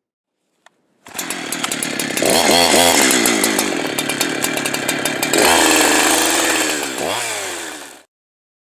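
Two-stroke chainsaw running at high speed and being revved, its pitch rising and falling a few times; the sound starts abruptly about a second in and cuts off suddenly near the end.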